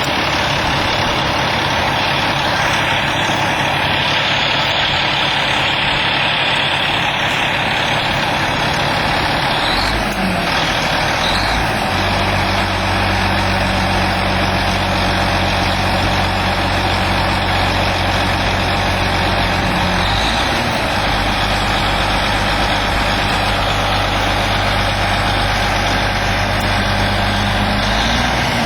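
The 2005 Kenworth W900L dump truck's Cat C-13 diesel engine running steadily. Its pitch shifts about a third of the way in, again around two-thirds of the way through, and once more near the end.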